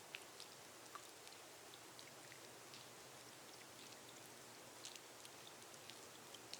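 Gentle rain on a glass roof: a faint, steady hiss with scattered individual drops ticking irregularly.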